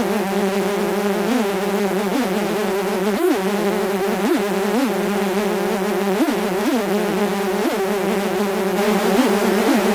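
Mosquito buzzing: a continuous whining drone, rich in overtones, whose pitch swoops briefly up and back down about once or twice a second.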